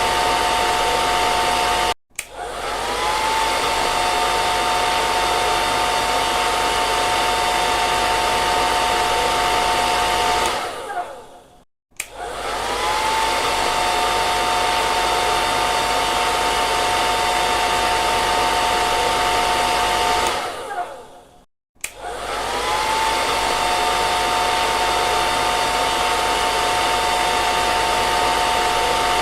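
An electric hair dryer blowing steadily: a rushing airflow with a steady whine in it. It switches off and winds down to silence, then comes back on with a briefly rising whine, about every ten seconds.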